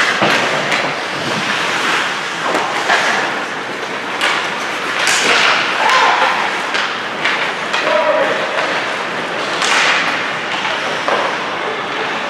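Ice hockey play in a rink: skates scraping the ice, and sticks and puck clacking and thudding against the boards, heard as a string of sharp knocks over a steady wash of noise. Spectators' voices call out briefly a few times.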